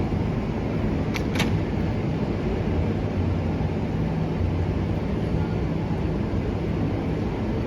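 R188 subway train running on the elevated line, a steady rumble with a low hum, and two short clicks about a second in.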